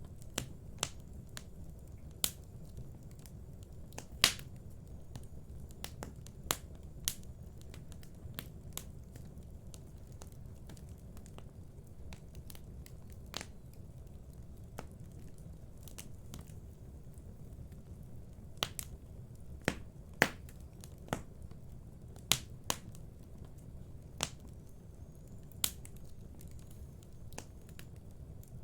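Wood fire burning in a fireplace: scattered, irregular sharp crackles and pops over a steady low rumble of the flames, the loudest pop about four seconds in.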